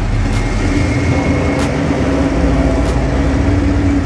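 A motor vehicle's engine running steadily, with a held hum, amid a general din. Faint sharp clicks come about every second and a quarter.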